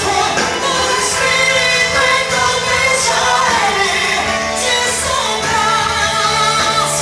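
A woman singing a gospel song over instrumental accompaniment, holding long sung notes.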